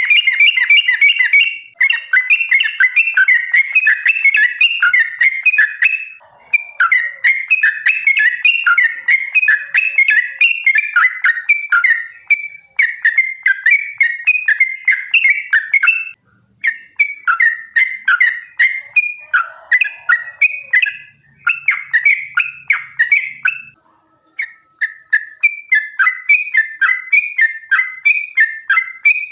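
Yellow-vented bulbul (trucukan) singing its long, rapid 'ropel' song: a fast run of repeated chattering whistled notes, broken by a few short pauses.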